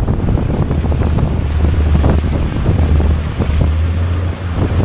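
Boat running at speed: wind buffeting the microphone over a steady low rumble of engine and rushing water against the hull.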